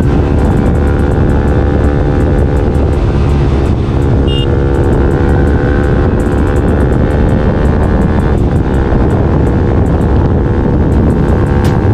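Bajaj Pulsar NS200 single-cylinder engine running through an aftermarket R9 racing exhaust, loud and steady.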